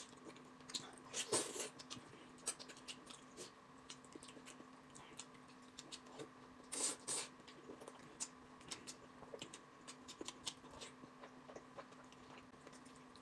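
Someone chewing and sucking on braised pork, with wet mouth smacks and clicks. Louder smacks come about a second in and again around the middle. A faint steady hum sits underneath.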